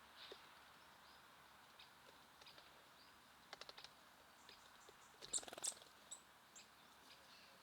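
Faint outdoor bird sounds at a feeder: small birds giving short, high chips and calls against a low hiss. A quick run of clicks comes about three and a half seconds in, and a brief clatter of sharp taps, the loudest sound, comes just after five seconds.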